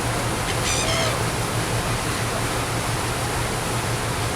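Steady rush of wind and water around a moving ferry, over the low hum of its engine, with one short wavering seagull call about a second in.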